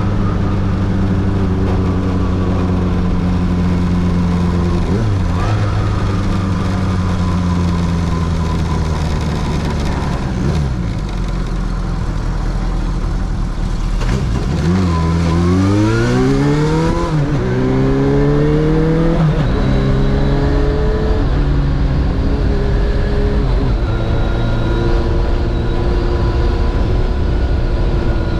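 Kawasaki Zephyr 750's air-cooled inline-four engine and exhaust under way. The revs fall with a downshift as the bike slows, hold low for a few seconds, then rise steeply through two upshifts as it accelerates, and settle into a steady cruise.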